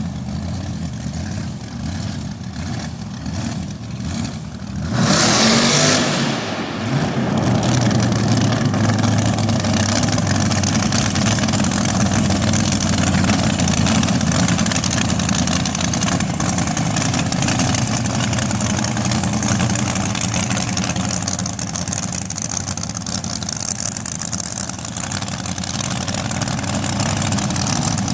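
Supercharged 355 small-block Chevrolet V8 dragster engine on alcohol idling with a choppy rhythm, then a sudden loud burst of throttle about five seconds in. After that a loud, steady running sound goes on to the end.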